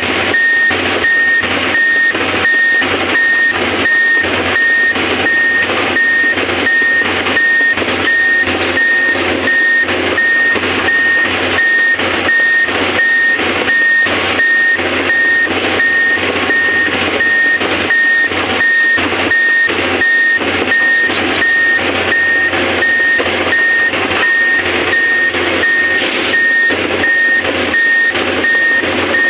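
Excavator warning alarm beeping steadily, about two high beeps a second, over continuous machine noise.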